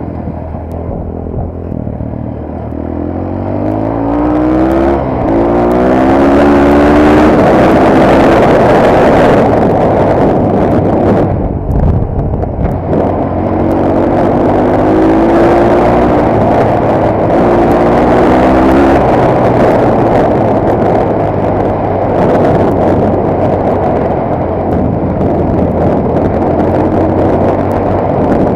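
Motorcycle engine accelerating twice, its pitch climbing and dropping back in steps as it shifts up through the gears, under heavy wind rush on the camera microphone.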